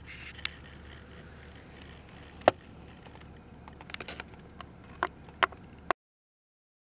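Low steady rumble inside a vehicle with a few sharp clicks and knocks, the loudest about two and a half seconds in and a quick cluster near the end. The sound cuts off abruptly about six seconds in.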